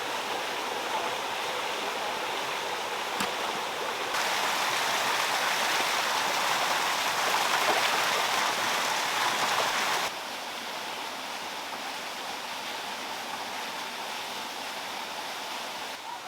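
Water running and splashing steadily, as from a stream or small waterfall. It gets louder suddenly about four seconds in and drops back suddenly about ten seconds in.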